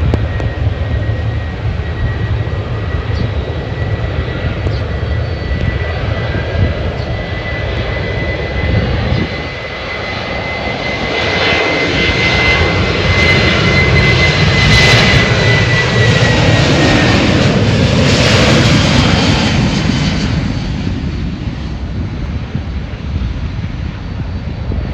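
A passenger jet's engines passing close by. A steady high whine drops in pitch about two-thirds of the way through, and the engine noise swells to a peak about halfway, then fades. Wind buffets the microphone with a low rumble throughout.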